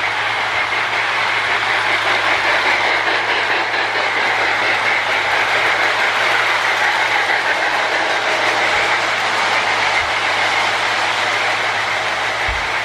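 Marx Sound-O-Power tender making its battery-powered chuffing sound as a toy train runs along the track, with the wheels clattering on the rails. The chuff shows the tender works again after its wheels, axles and actuator wheel were cleaned and its corroded ground rivet was replaced.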